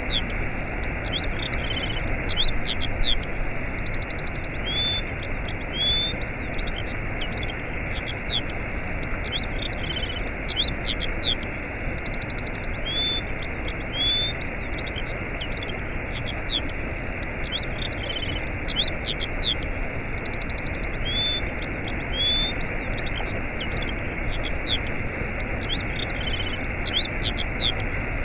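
Waterfall rushing steadily, with small birds chirping, trilling and whistling over it; the same run of bird calls comes round again about every eight seconds.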